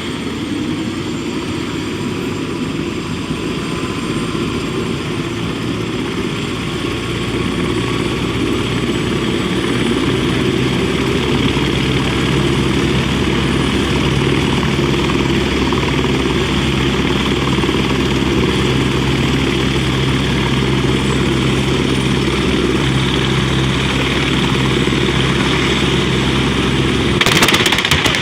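Heavy vehicle engine running steadily, slowly rising a little in pitch and getting louder. About a second before the end it cuts abruptly to a short burst of harsher noise.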